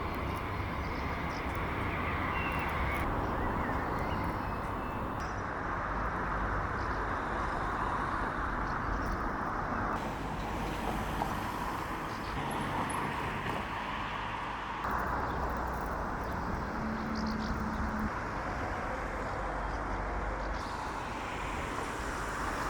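Steady rushing wind and engine noise of a motorcycle being ridden, in several short clips cut together, its character changing abruptly at each cut.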